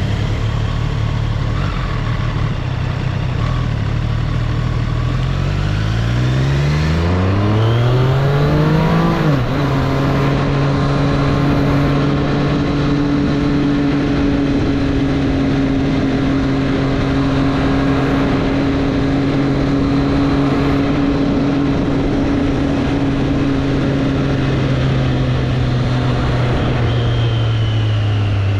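2024 Triumph Street Triple's inline-three engine under acceleration, its pitch rising for several seconds before an upshift about nine seconds in. After the shift it holds a steady cruise, easing off slightly near the end.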